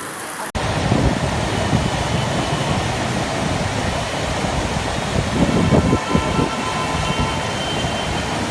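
Loud, steady rush of floodwater, with irregular low rumbles under it; it starts abruptly about half a second in.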